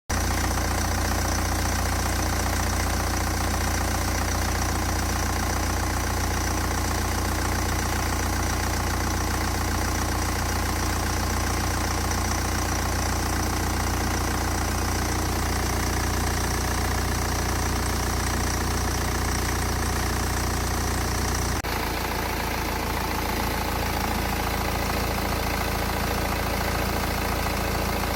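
BMW N47 2.0-litre four-cylinder turbodiesel in a 320d idling steadily, its oil freshly treated with an engine oil additive. About 22 seconds in, the sound changes abruptly and the low rumble becomes weaker.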